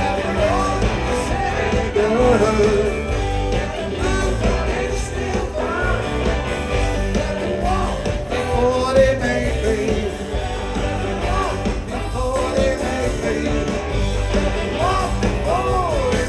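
Rock band playing live: drums, bass and electric guitars, with singing over them.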